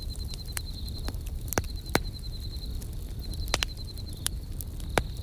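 Campfire crackling, with scattered sharp pops over a low rumble of burning, the loudest about two seconds in and near the end. Crickets chirp throughout in high, rapid pulsing trills that run a second or two at a time with short breaks.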